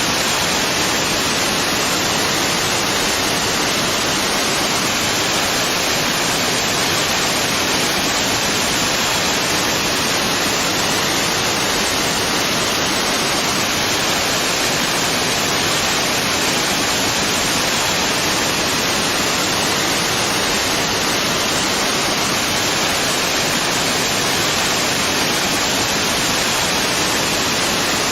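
Waterfall: a loud, steady rush of falling water, with no change throughout.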